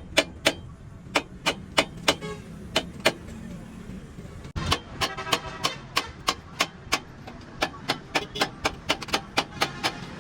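Repeated hammer blows on metal, some ringing briefly, at roughly three to four strikes a second, with a sudden break about halfway through.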